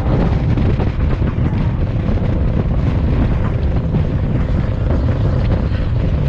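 Loud, steady low rumble of a car engine running, mixed with heavy wind buffeting on the microphone.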